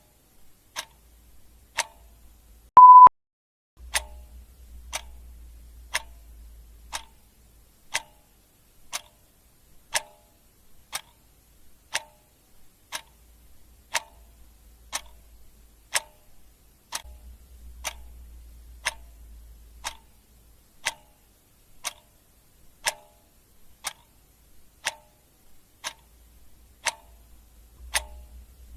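Clock ticking steadily, one tick a second. About three seconds in, a short, loud beep at one steady pitch sounds once over the ticking.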